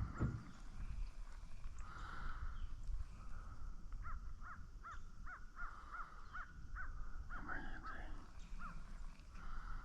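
Birds calling: a quick run of about a dozen short, cawing calls from about four seconds in to near the end, over fainter background calling and a low wind rumble on the microphone. A brief low thump right at the start.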